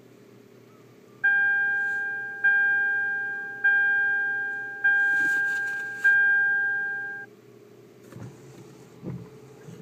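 A car's electronic warning chime dinging five times, about once every 1.2 seconds, each ding fading out, over a steady low hum heard inside the cabin.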